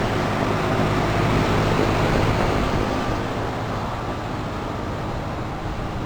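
2014 Ducane 5-ton heat pump's outdoor unit running in heat mode: a steady hum of the condenser fan and scroll compressor with a rush of air, easing slightly about three seconds in.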